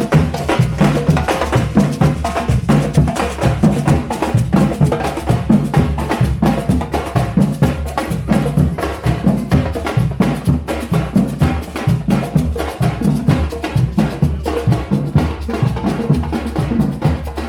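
Percussion band playing drums with a fast, dense beat and sharp wood-block-like clicks, without a break.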